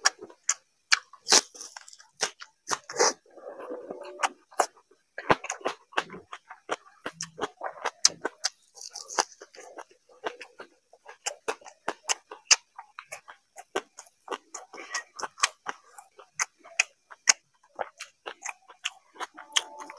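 Close-miked eating by hand: wet chewing and quick, irregular lip-smacking clicks from mouthfuls of water rice (panta bhat) and fried fish, with soft squishes as fingers mix the wet rice in the plate.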